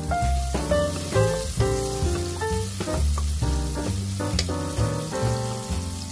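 Sliced onions sizzling in hot oil in a pot while being stirred with a wooden spatula, under background music with a melody and a bass line. A single sharp click about four and a half seconds in.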